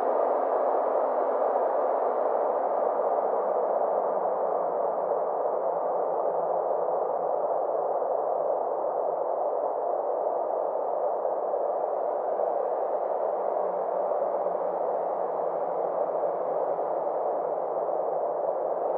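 Synthesized space-ambience drone: a steady rushing noise whose brightness slowly dips and rises over several seconds.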